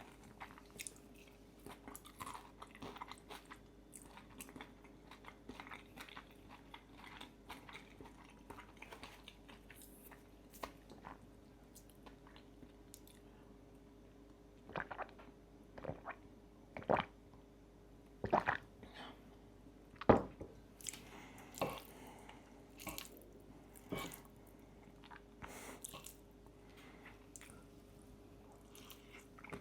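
Close-miked chewing and biting of pistachio pesto fettuccine with crispy bacon: soft wet mouth sounds broken by irregular crunches, with the sharpest, loudest crunches in the middle stretch.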